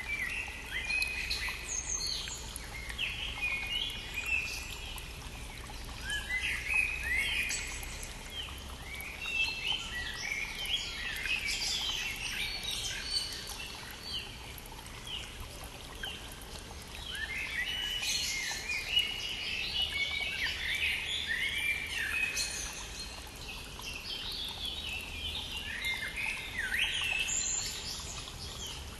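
Several songbirds singing in spring, dense overlapping phrases of chirps and trills coming in waves, over the steady rushing of a small stream.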